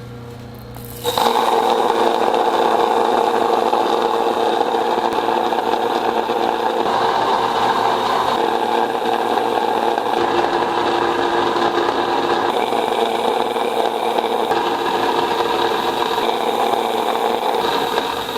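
A small motor switches on about a second in and runs steadily, a constant mechanical hum with a few fixed tones.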